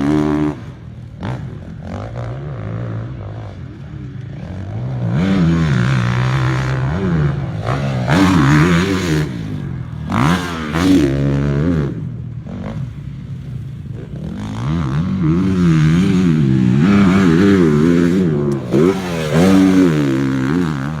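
Honda factory motocross bike's four-stroke engine being ridden hard, revving up and dropping back repeatedly as the rider works the throttle and gears, with some clattering and scraping noise.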